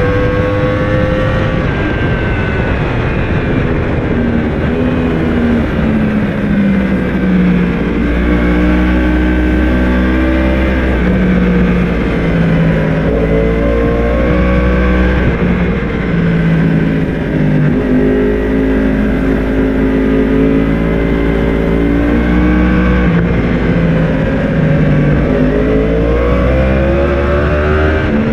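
Yamaha YZF-R1 inline-four engine running hard, its pitch repeatedly climbing and dropping as the bike accelerates and slows, with a steady low rush underneath.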